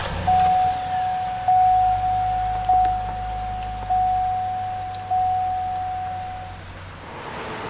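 Hummer H2 dashboard warning chime dinging five times, evenly about a second apart, each ding fading away, over a low hum that dies away about halfway through.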